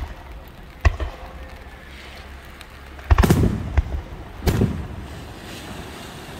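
Aerial firework shells bursting. A single sharp bang comes about a second in, then three heavier bangs follow from about three seconds on, each trailing off in a low echo.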